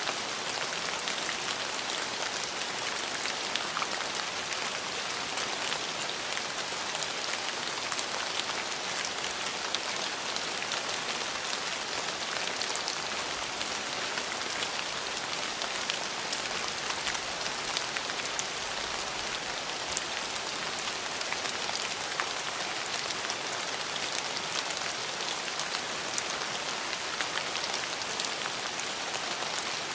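Steady rain falling on hard surfaces, an even hiss with many small drop ticks scattered through it.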